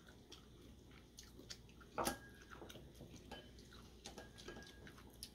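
Quiet eating sounds: a person chewing a mouthful of instant ramen noodles, with scattered soft clicks and one sharper click about two seconds in.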